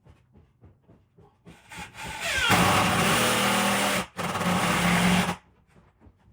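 Power tool motor spinning up with a rising whine and running for about three seconds, with a brief stop and restart near the end.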